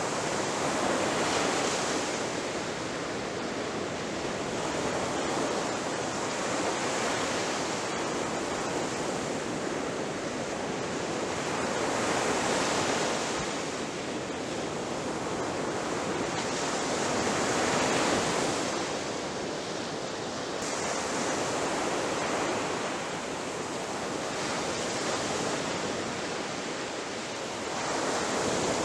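Ocean surf: waves breaking and washing up the shore in a continuous rush that swells and eases every four to six seconds.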